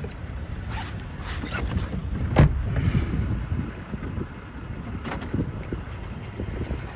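Strong storm wind buffeting the microphone as a steady low rumble, with a sharp knock about two and a half seconds in.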